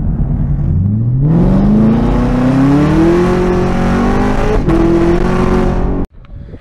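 2018 Camaro ZL1's supercharged V8, fitted with Kooks headers and a full exhaust system, heard from inside the cabin as the car accelerates. It rumbles at low revs, then the revs climb steeply for a couple of seconds and keep rising more slowly. About four and a half seconds in there is a short break and a drop in pitch, like an upshift, before the sound cuts off suddenly.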